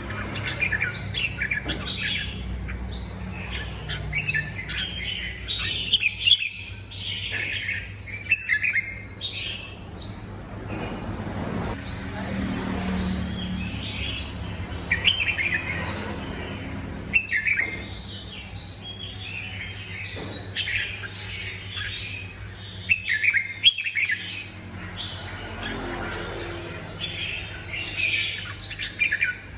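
Songbird singing its song phrases: rapid runs of chirps and sweeping whistled notes, repeated phrase after phrase with short pauses, over a faint steady low hum.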